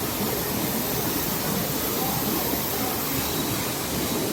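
Steady rushing noise of a fast, heavy flash-flood torrent of muddy water surging down a wadi.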